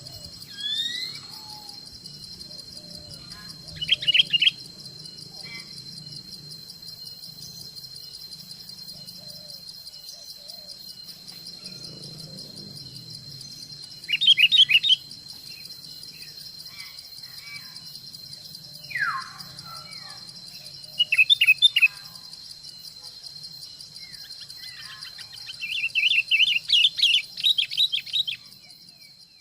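Forest ambience: an insect's steady high buzz under bird calls. There are several short bursts of rapid calls, a single slurred whistle twice, and a longer run of rapid calls near the end, after which everything fades out.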